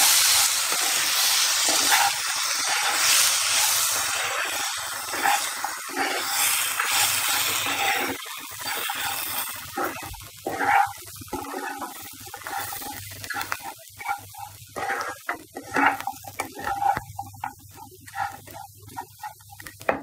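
Vermicelli upma sizzling in a nonstick pan while a wooden spatula stirs it. The sizzle is loud at first and dies down over the first half, leaving irregular scraping and rustling strokes of the spatula through the dry vermicelli.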